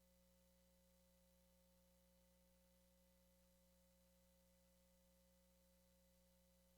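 Near silence: a faint, steady low hum with a thin tone above it, unchanging throughout.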